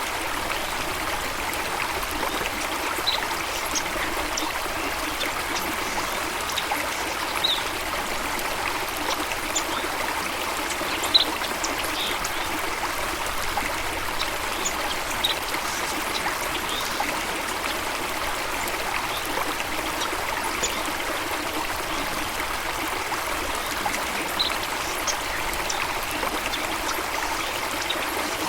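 Running water, a steady rushing and trickling, with short, faint high chirps scattered through it every few seconds.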